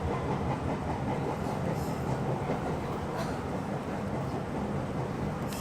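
Running noise of a Meitetsu electric commuter train heard from inside the front car: a steady rumble with a few light clicks of the wheels over the track.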